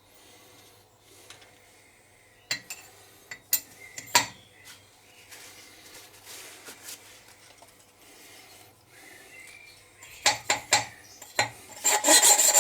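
Scattered metallic clinks and knocks as a valve and tools are handled on a Kubota diesel cylinder head. Near the end a loud, rhythmic grinding rasp starts: a valve being hand-lapped into its seat with grinding paste.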